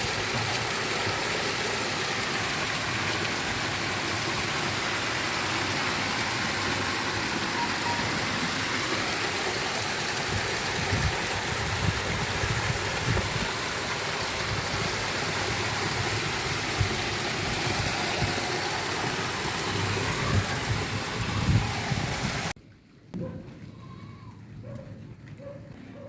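Heavy rain falling in a steady, dense hiss, with a few low thumps. About three-quarters of the way through it cuts off abruptly, leaving a much quieter background with a few faint short chirps.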